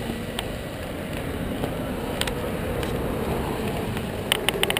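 Steady low rumble of vehicle engines at a race track, with a quick run of sharp clicks near the end.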